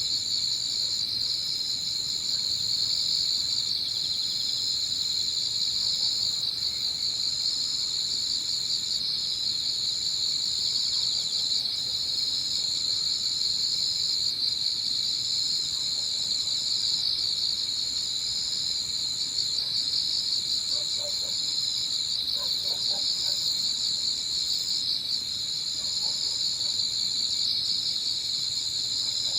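Evening chorus of crickets and other autumn insects chirring steadily together. A higher, thinner trill runs over it and stops for a moment about every two seconds.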